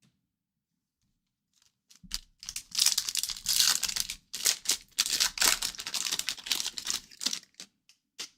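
A hockey card pack's wrapper being torn open and crinkled by hand: about two seconds in, a run of dense crackling and tearing starts and lasts some five seconds, then a short click near the end.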